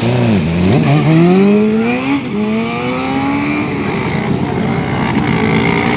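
Motorcycle engine revving: the pitch dips at the start, climbs over the first two seconds, rises again a little later and then holds steady.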